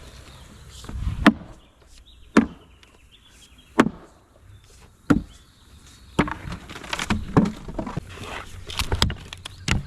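Hard blows on wood: four sharp strikes about a second and a quarter apart, then a busier run of lighter knocks and thuds.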